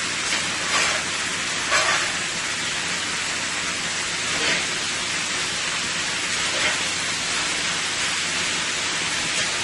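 Chicken, broccoli and cabbage stir-fry sizzling steadily in sauce in a hot pan, now and then briefly louder.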